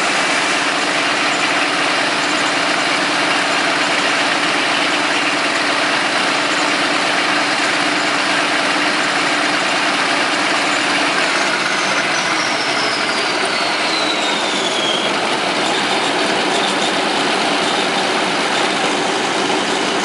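Caterpillar D13000 diesel engine running steadily. Part way through, a faint whine falls slowly in pitch.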